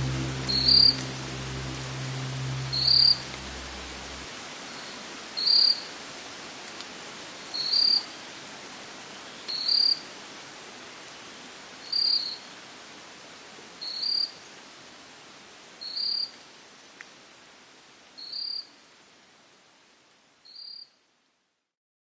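Rainforest ambience: a short, high two-part call repeats about every two seconds over a steady hiss. A low hum sounds in the first few seconds, and the whole sound fades out gradually to silence near the end.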